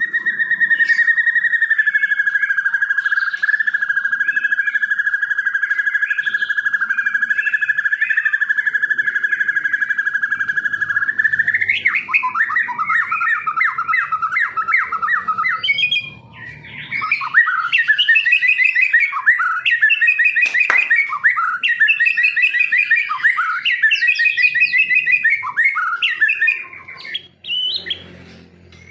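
Songbird singing: a long, steady, high whistled note with a slight warble for about eleven seconds, then rapid, varied chirping phrases with a short break about halfway through.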